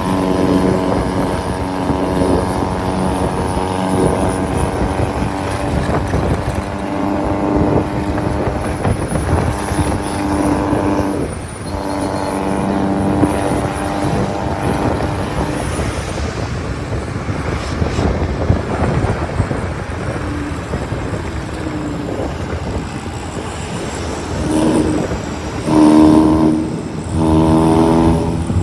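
Diesel engines of vehicles climbing a mountain road, holding a steady droning pitch under rough engine noise. Near the end come several loud, abrupt pitched blasts.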